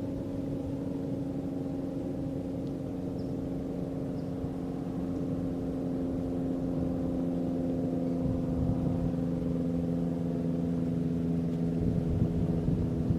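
A steady low mechanical hum made of several even tones. It grows somewhat louder about halfway through.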